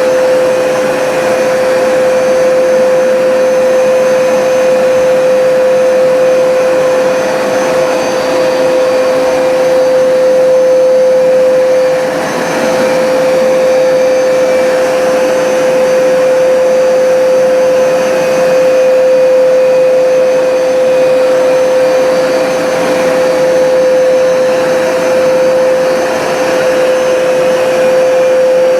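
Hoover Smartwash automatic carpet cleaner running: a steady motor whine over the rush of its suction, with a slight dip about twelve seconds in.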